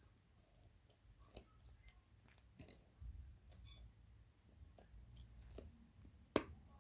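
Dry blue clay being bitten and chewed close to the microphone: a few sharp, irregular crunches, the loudest one near the end.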